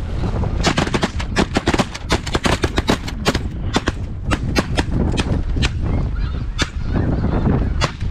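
A rapid volley of shotgun fire from several guns, dozens of shots over about seven seconds, over snow geese honking and wind buffeting the microphone.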